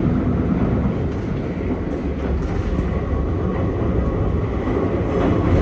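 Running noise heard from inside a Nankai 2200-series train car in motion: a steady low rumble of wheels on rail and running gear, with a few faint light clicks about two seconds in.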